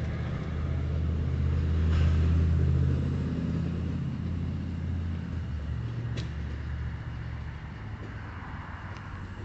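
An engine running with a low, steady drone that is loudest in the first few seconds and then slowly fades. There is one sharp click about six seconds in.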